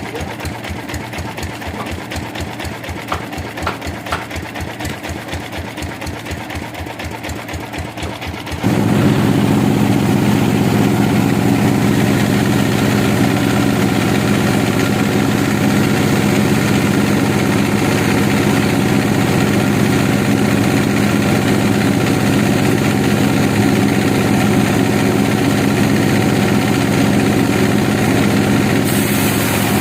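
An engine runs with an even beat of about five thuds a second. About nine seconds in it switches abruptly to a louder, steady machine run that continues.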